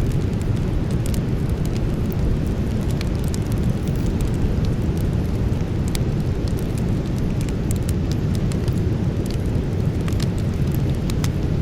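Campfire burning, with frequent small crackles and pops coming at irregular moments over a steady low rushing sound.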